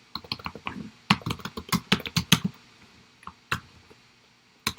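Typing on a computer keyboard: a quick irregular run of keystrokes for about two and a half seconds, a few single key presses, then another burst of keys at the end.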